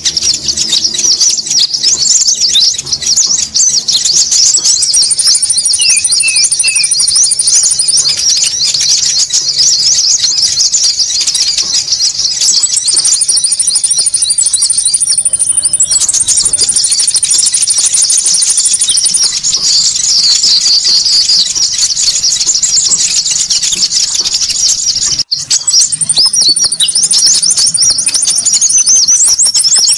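Konin lure call: a dense, noisy chorus of small birds chirping and twittering at high pitch, with a fast, very high trill that comes and goes. It breaks off for an instant late on.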